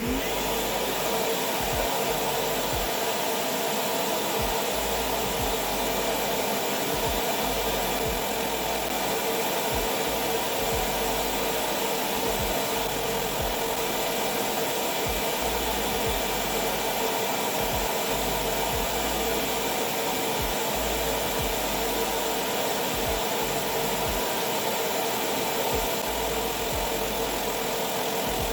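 Ridgid shop vacuum switched on and running steadily at full power, pulling air through a miter saw dust collection hood, with a steady hum under the rush of air.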